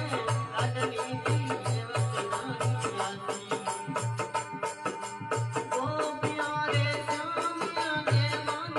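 Instrumental passage of a Rajasthani folk bhajan: deep, booming drum strokes under fast, busy rattling percussion and a sustained melody line.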